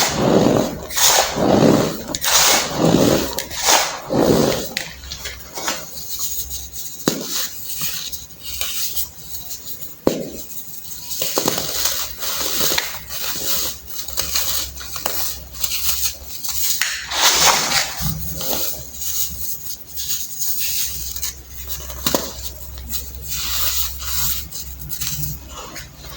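Clumps of baking soda being crushed: a run of crumbly crunches, loudest and most frequent in the first few seconds and again briefly about two-thirds of the way through, with sparser, softer crunches between, over a steady low hum.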